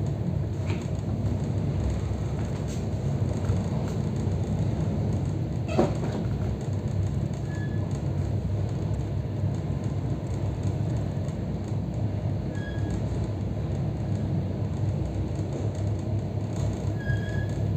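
Steady rumble of an EP3D electric multiple unit running along the line, heard from inside a passenger carriage as the wheels roll over the rails. There is a single sharp knock about six seconds in.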